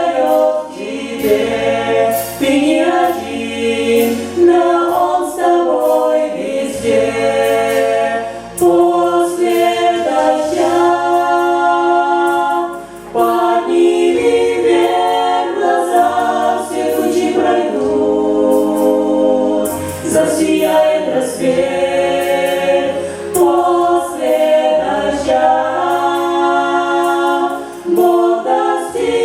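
A group of voices singing a Christian worship song in close harmony, sustained notes moving together in chords over steady low notes.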